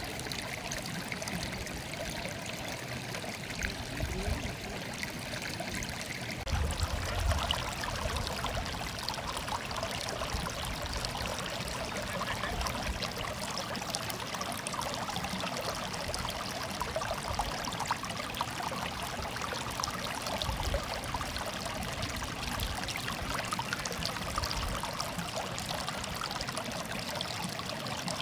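Water murmuring and trickling steadily, as over stones in a shallow stream. About six seconds in, the flow grows fuller in the middle range, with a few low bumps just after.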